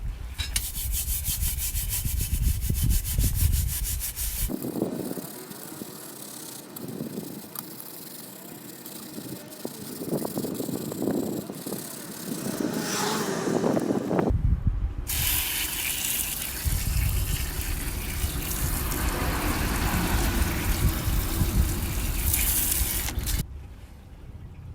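Scrubbing a steel fire pit: fast, even strokes for the first few seconds, a lighter, uneven stretch, then a long spell of harder scrubbing that stops shortly before the end.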